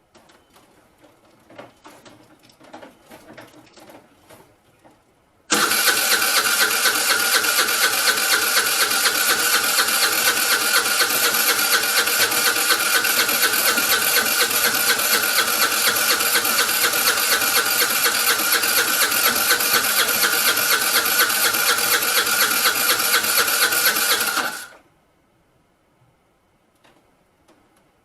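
Vespa scooter's electric starter cranking the engine in one long unbroken stretch of about nineteen seconds, with a fast even pulse, without the engine catching, then stopping abruptly. A few light clicks and knocks come before it.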